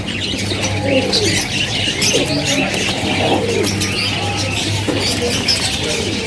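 Caged pigeons cooing in low, repeated rolling calls, with many small birds chirping high over them and a steady low hum underneath.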